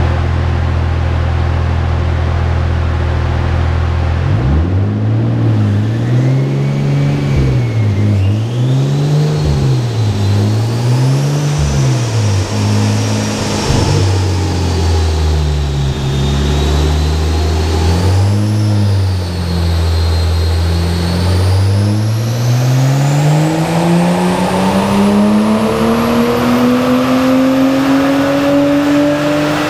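Nissan Skyline R34 GT-T's turbocharged straight-six, breathing through a custom turbo-back exhaust, running steadily at first. About four seconds in it is revved up and down several times, then near the end it climbs in revs in one long, steady rise, with a faint high whine rising above it.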